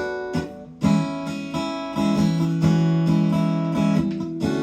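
Fender Newporter acoustic-electric guitar strumming chords, with fresh strums near the start and about a second in, then chords left ringing before a new strum near the end.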